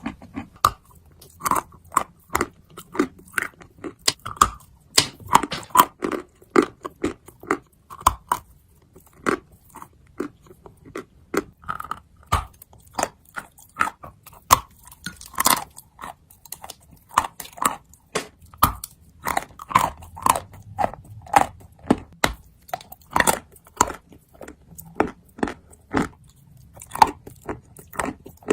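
A person biting and chewing hard, crunchy clay pieces close to the microphone: a continuous, irregular run of sharp crunches and crackles, several a second.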